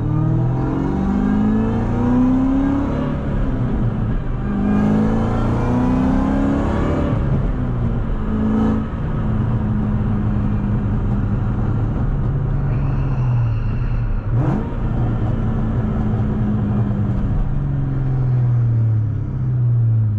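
Supercharged 4.6-litre V8 of a 2003 Mustang SVT Cobra pulling through the gears: its pitch climbs and drops several times in the first seconds, settles to a steadier cruise, rises briefly again near the middle and falls away near the end.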